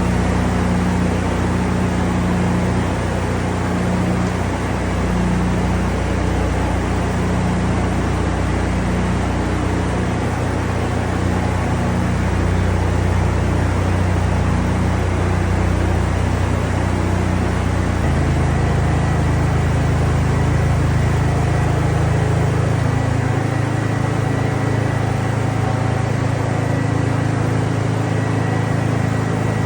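An engine running steadily, its note changing to a lower, fuller one about two-thirds of the way through.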